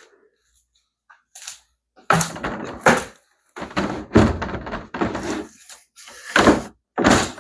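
A string of heavy, dull thunks, roughly one a second, as plastic pool-ladder parts are knocked and pushed together into place.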